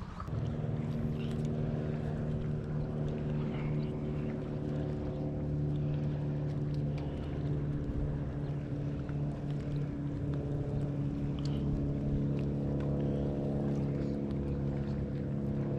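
Motorboat engine running steadily at an even pitch, starting abruptly near the beginning.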